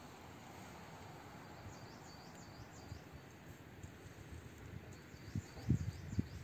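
Faint outdoor ambience with small high chirps repeating, and a few low thumps near the end.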